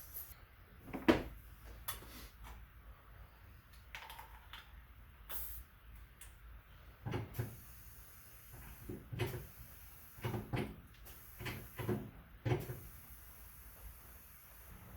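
A series of short knocks and clunks from tools and the wheel being handled: one sharp knock about a second in, then a run of heavier clunks between about seven and thirteen seconds.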